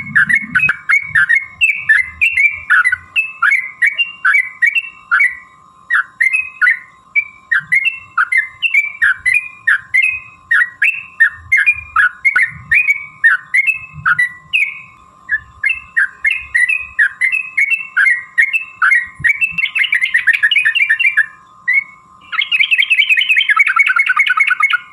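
Yellow-vented bulbul (trucukan) singing: a rapid series of short chirping phrases, two to three a second, breaking twice late on into a fast continuous rattling trill.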